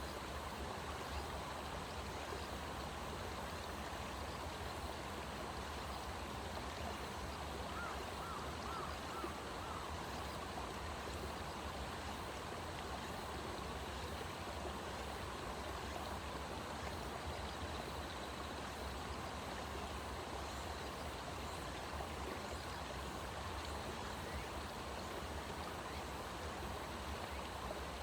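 Steady rushing outdoor ambience, with a brief run of faint chirps about eight seconds in.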